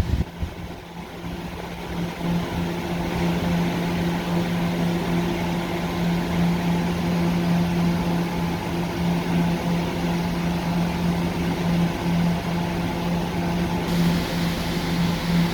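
Staten Island Railway electric train humming steadily: one low, unchanging tone with an overtone above it, over a constant rush of fan-like noise.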